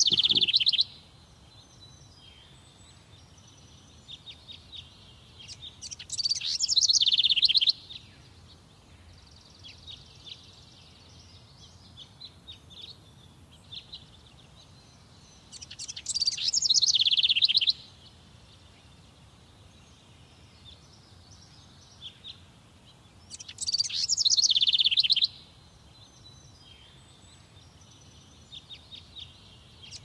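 A songbird singing: loud phrases of rapid, high trilled notes, each about two seconds long, repeating roughly every eight seconds, with softer scattered chirps in between.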